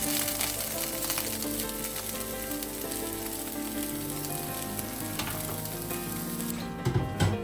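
Food sizzling and crackling as it fries in a pan, with the sizzle dropping away near the end and a couple of dull knocks just before the end.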